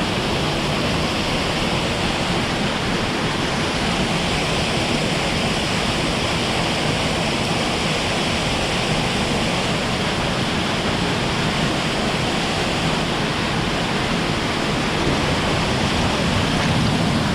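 Mountain stream rushing over rocks: a loud, steady roar of flowing and falling water.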